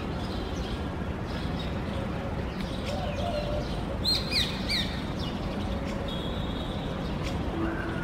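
Birds chirping: a quick run of three short, sharp, falling chirps about four seconds in, with fainter calls before and after, over a steady low background rumble.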